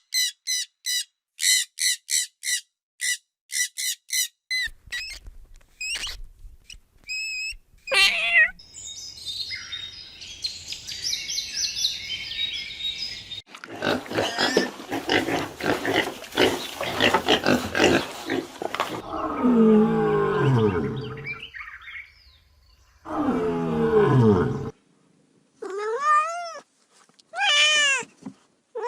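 A succession of different animal calls. It opens with a quick run of high chirps for the first few seconds, followed by a rougher, noisy stretch. Later come deeper calls that fall in pitch, and near the end two pitched calls that rise and fall.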